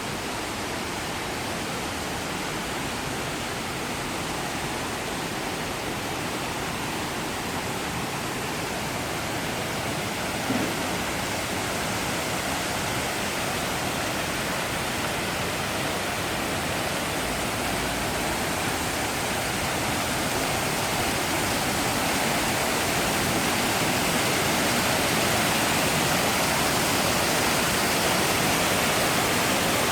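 Man-made waterfall pouring steadily into its pool, a continuous rushing of water that grows gradually louder.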